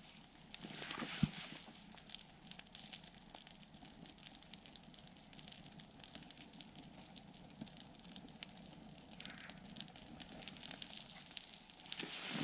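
Campfire crackling faintly with scattered small pops, and one sharp knock about a second in.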